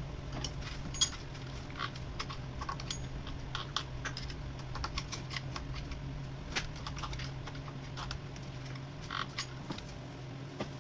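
Irregular light clicks and taps, a few loud enough to stand out, over a steady low hum.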